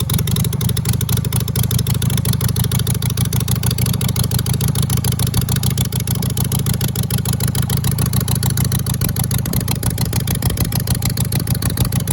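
2005 Harley-Davidson Sportster 883's carbureted air-cooled V-twin running steadily with both mufflers removed: open straight-pipe exhaust giving a rapid, even run of exhaust pulses, insanely loud.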